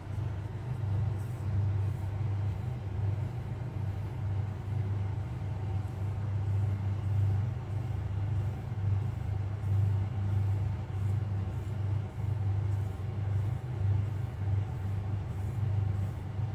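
Domestic cat purring close up: a steady low rumble that swells and eases with each breath.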